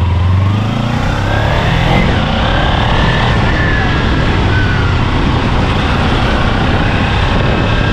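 Kawasaki motorcycle being ridden: its engine running under a steady rush of wind noise, with a low engine hum that fades about a second in.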